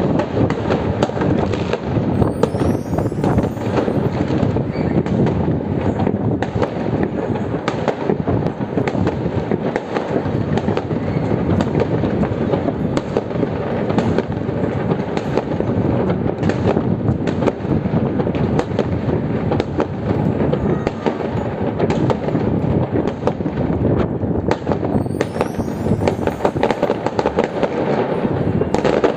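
Many fireworks going off at once across the city, a dense continuous barrage of bangs and crackling. A high rising whistle comes twice, about three seconds in and near the end.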